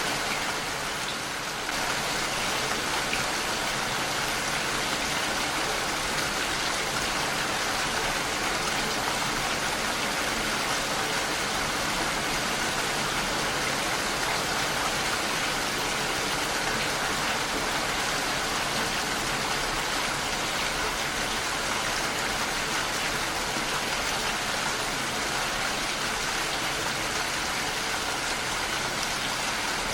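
Heavy rain falling steadily on a window, a dense, even patter, dipping slightly softer for about a second near the start.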